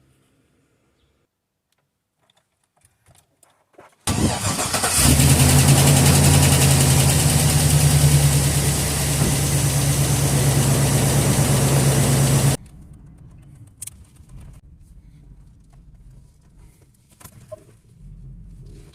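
Hummer H2's V8 engine starting about four seconds in and running loudly for about eight seconds before the sound cuts off abruptly, followed by a much fainter steady running sound with occasional ticks. The owner identifies the engine's abnormal noise as tappet (valve lifter) noise.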